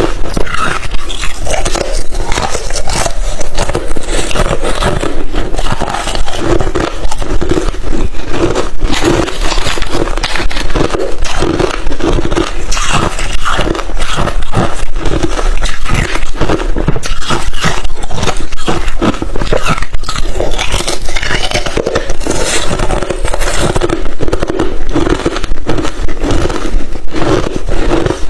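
A person biting and chewing crushed, refrozen thin ice chips: a dense, unbroken run of loud, crisp crunches.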